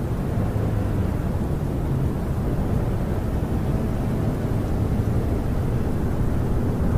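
Snowstorm wind blowing against a parked camper, heard from inside as a steady, deep rumble with no breaks.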